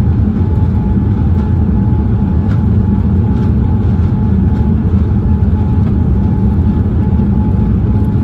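Boeing 787 cabin noise while the airliner rolls on the ground after landing: a steady low rumble of engines and wheels, with a thin steady whine above it.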